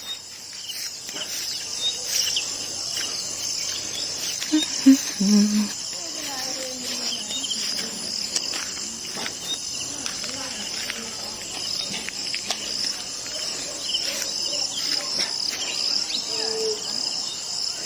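Insects chirping steadily, a high, finely pulsing buzz, with a few brief low sounds about five seconds in.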